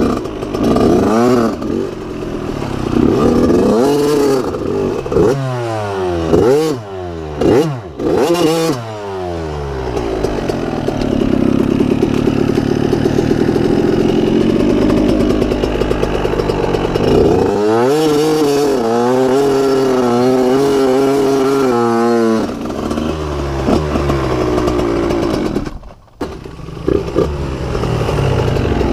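Dirt bike engine being ridden hard, revving up and down over and over as the throttle opens and closes and the gears change. It holds steadier for a few seconds in the middle, and the sound drops out briefly near the end.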